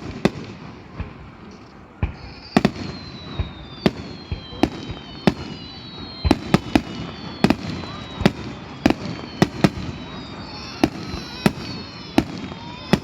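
Fireworks display: shells bursting in an irregular string of sharp bangs, one to three a second, with high whistling tones slowly falling in pitch from about two seconds in.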